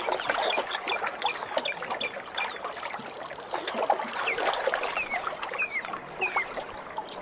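Water trickling and splashing, with many small plinking drops throughout.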